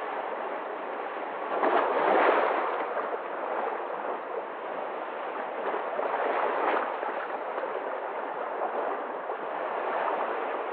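Sea waves washing in and lapping, with a louder surge about two seconds in and smaller ones near six and ten seconds.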